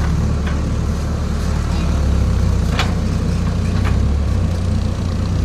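Diesel engine of a JCB backhoe loader running steadily, with a couple of short sharp knocks partway through.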